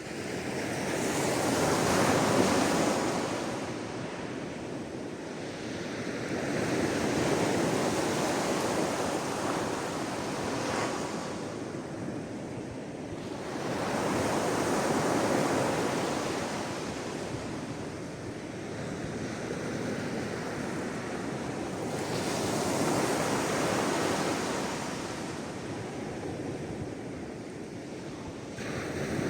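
Sea waves breaking and washing onto the shore, each one swelling up and then receding; about five waves roll in over half a minute.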